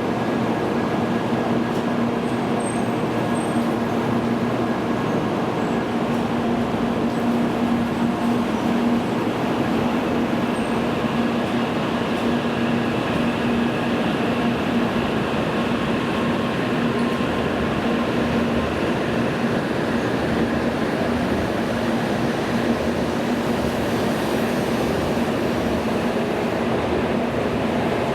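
A Tokaido Shinkansen train at the platform, giving a steady hum with a constant low tone over an even rushing noise.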